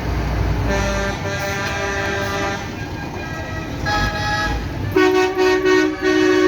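Tractor horns tooting in several different pitches over engine rumble, ending in a run of short, loud toots.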